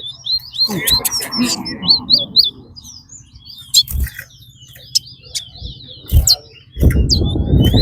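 Caged competition songbirds singing in a bird race: quick series of short, rising, high chirps in several runs, with a few knocks and low voices of onlookers near the end.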